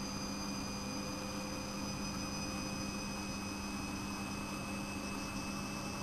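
Siemens Siwamat 6143 washing machine running steadily: an even motor hum with fainter high whines over a constant rushing noise.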